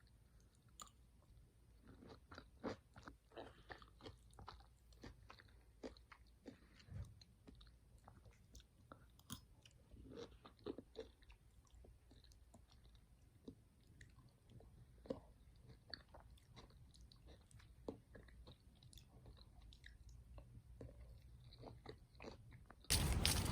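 A person chewing and crunching food: faint, scattered crunches and mouth clicks. Music starts near the end.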